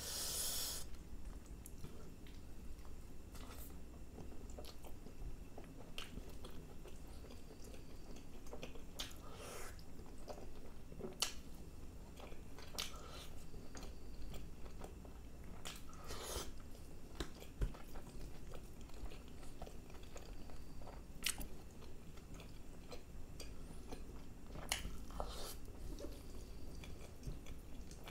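Close-miked chewing and biting of a person eating chicken masala curry and naan by hand, with irregular short clicks from the mouth and fingers, over a faint low hum.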